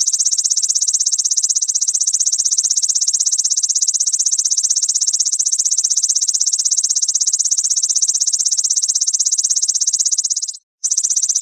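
Grasshopper song: a loud, high, rapidly pulsed buzz that stops for a moment about ten and a half seconds in, then starts again.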